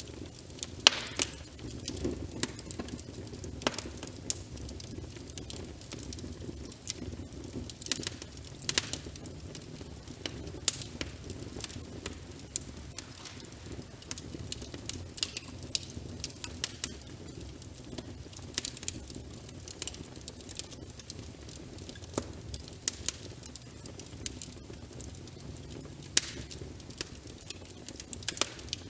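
Wood fire crackling with frequent, irregular sharp pops, a few much louder than the rest, over a steady bed of rain.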